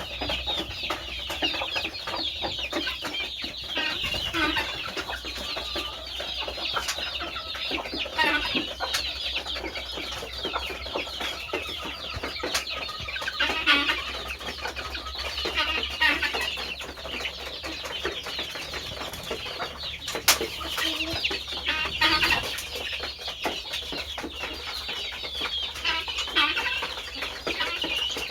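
A flock of chickens clucking and calling, many overlapping calls throughout, over a low steady hum.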